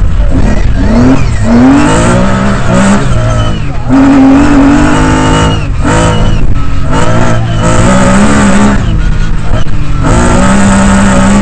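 Lancia Stratos rally car's engine heard from inside the cabin, revving hard with its pitch climbing, then dropping back at each gear change or lift, several times over. Steady road noise runs underneath.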